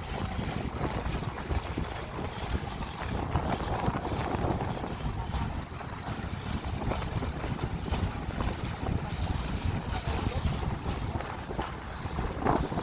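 Wind buffeting the microphone aboard a moving boat, a gusty low rumble with an even rush of noise above it.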